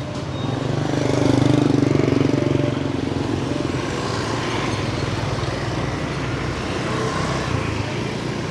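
A motorbike engine passing close by, growing loud about a second in and fading away by about three seconds, over the steady hum of street traffic.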